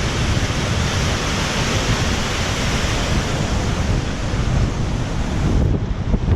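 Loud wind buffeting a GoPro's microphone in a snowstorm, a steady rumbling roar.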